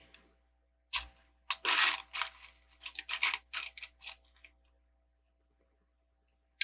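Loose plastic Lego pieces clattering and clicking as a hand sifts through them: a dense run of rattles from about a second in, fading out after about four seconds.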